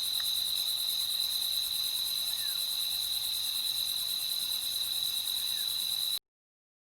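Night chorus of crickets trilling steadily at a high pitch, cutting off suddenly near the end.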